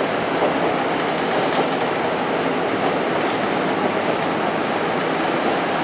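Diesel railcar running along the line at speed, heard from on board: a steady rumble of wheels on the rails.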